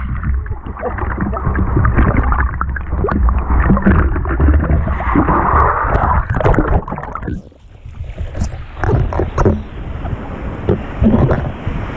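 Seaside wind buffeting the microphone over surf, with scattered knocks and clatter. The noise drops briefly about two thirds of the way through.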